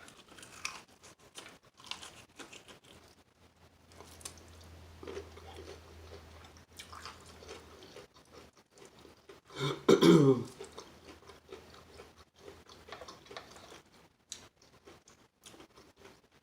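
Close-up chewing of crispy fried chicken wings: crunching and small mouth clicks throughout. About ten seconds in, a single loud throat clear, brought on by the spicy seasoning.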